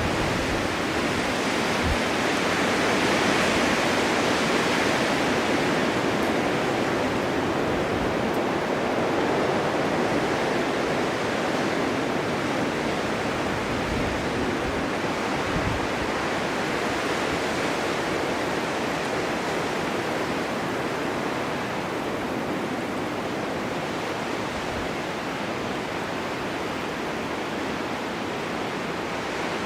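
Blizzard wind driving snow across a winter mountainside: a steady rushing hiss that swells and eases slowly, with a few brief low thumps.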